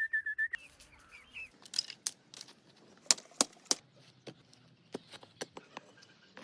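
A series of sharp, irregular clicks and clinks, about a dozen, loudest around three seconds in. A high chirping comes in the first second and a half.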